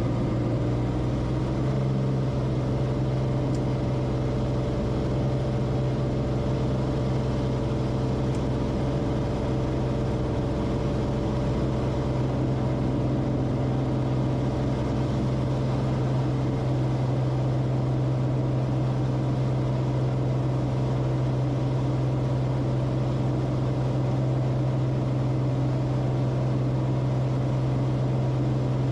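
Cessna Corvalis TTX's turbocharged six-cylinder engine and propeller running steadily: a constant drone with a slight shift in tone about two seconds in.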